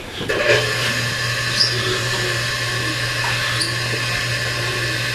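A car-wash electric motor switches on about half a second in and runs with a steady hum and whine.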